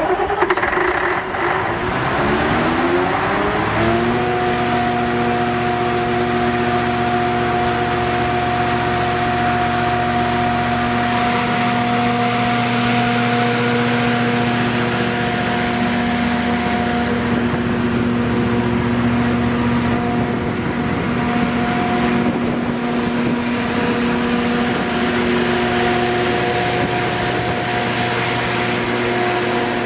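The V8 MTU four-stroke diesel engine of a 370 kW Pramac mobile generator starting: it fires at once, rises in pitch over the first few seconds, then settles into a steady run at constant speed.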